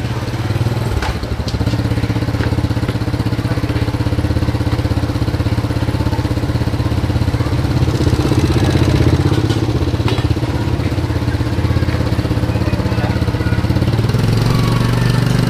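Small motorcycle engine running at a steady speed, its note shifting near the end.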